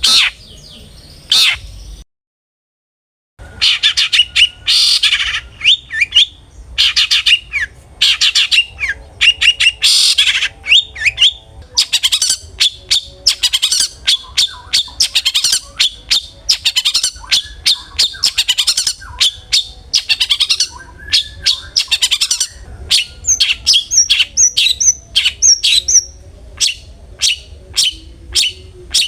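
Long-tailed shrike (cendet) singing hard: a fast, harsh chatter of short sharp notes, with a run of higher, thinner notes near the end. About two seconds in the sound cuts out completely for about a second.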